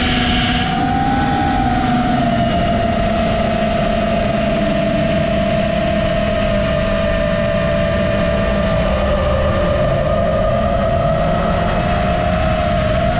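FPV quadcopter motors and propellers whining steadily, the pitch drifting slightly as the throttle changes.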